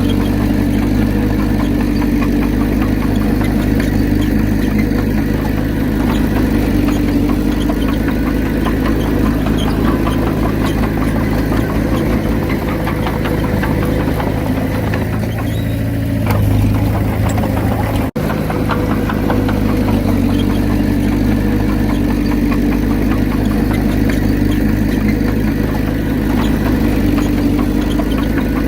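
Komatsu D31P bulldozer's diesel engine running steadily at working revs, its note shifting briefly about fifteen seconds in. The sound cuts out for an instant about eighteen seconds in.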